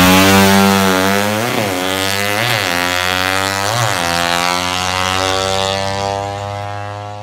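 Drag-racing motorcycle engine running steadily, with three quick throttle blips, dying away near the end.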